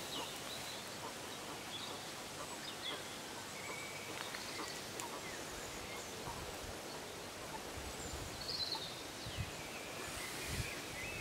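Quiet outdoor pond-side ambience with scattered short bird chirps and whistles, high-pitched and brief, and a few low thumps near the end.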